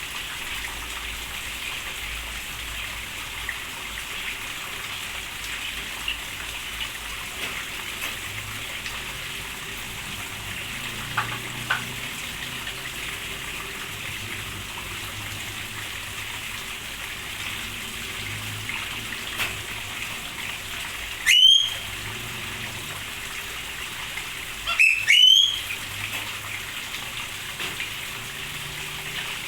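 Steady rain falling in an aviary. A bird gives one loud call about two-thirds of the way through, then two more close together a few seconds later.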